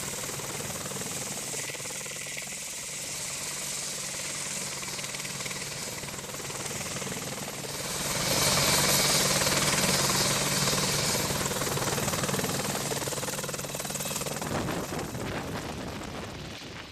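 AH-64 Apache attack helicopter flying, its twin-turbine engines and rotor making a steady noise that grows louder about eight seconds in, then fades toward the end.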